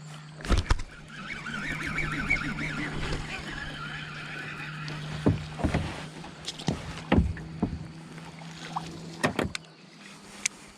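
Handling noise in a small fishing kayak: a stretch of water or gear noise in the first few seconds, then a series of sharp knocks and bumps against the hull, over a steady low hum.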